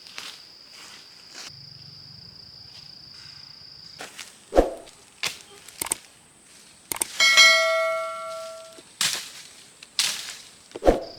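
A steady high trill of insects, then several knocks and a metal object struck once about seven seconds in, ringing with many overtones and fading over about a second and a half, followed by two short scraping swishes and another knock.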